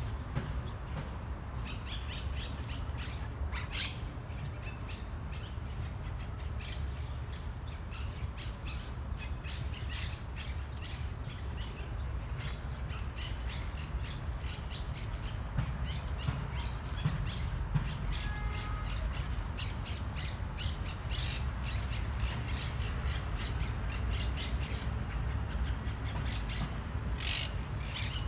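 Many parrots squawking, short harsh calls coming one after another, over a steady low rumble.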